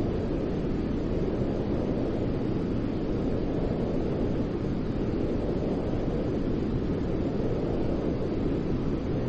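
Steady, unchanging noise with a deep, rumbling character, strongest in the low range and much weaker in the highs. It is a continuous sleep-noise track.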